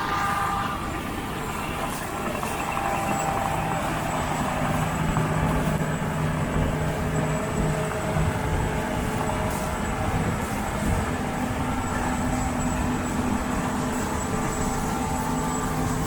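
John Deere combine harvester running steadily while harvesting soybeans: a constant engine hum with a faint high whine, no changes in speed.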